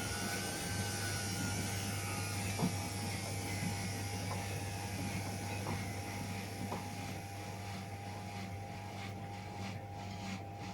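Washing machine running: a steady motor hum with a thin, slightly wavering whine, one sharp click about two and a half seconds in, and scattered light clicks near the end.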